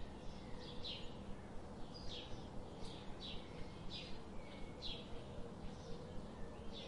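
Small birds chirping, a run of short falling chirps about one or two a second, over a steady low hum.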